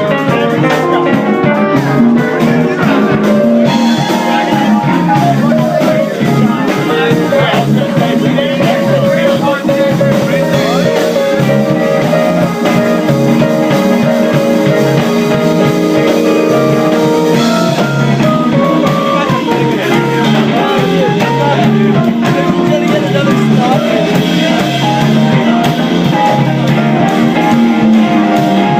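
Loud live band music with guitar and drum kit, and a voice singing over it.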